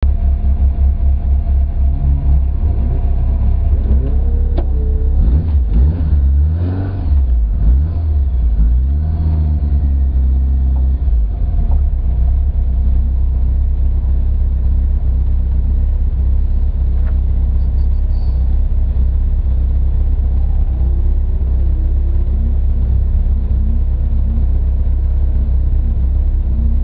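Rally car engine revving, its pitch rising and falling repeatedly for the first ten seconds or so, then settling into a steadier low running sound.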